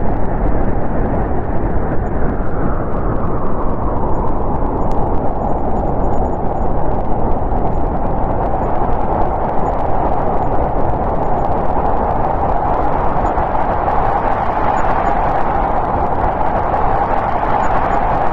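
Strong snowstorm wind: a continuous rushing blow, deep and full, that slowly eases and swells again in pitch.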